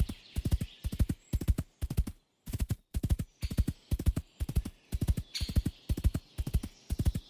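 Horse hooves clip-clopping in a quick, even rhythm of grouped beats, about two groups a second, with a brief break about two seconds in.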